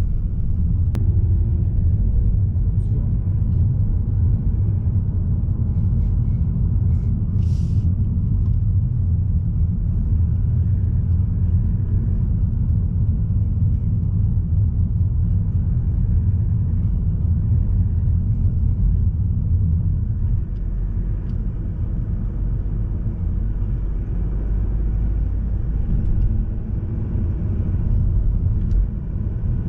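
Steady low driving rumble of a Mazda3 sedan with a 1.8 litre diesel engine, engine and tyre noise heard from inside the car, easing slightly about twenty seconds in.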